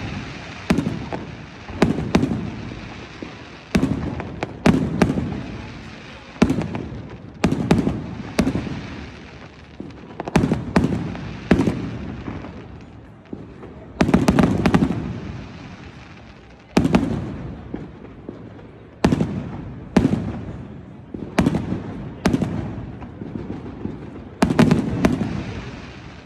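Fireworks display: aerial shells bursting one after another, each a sharp bang followed by a low rumble that dies away, about one every one to two seconds.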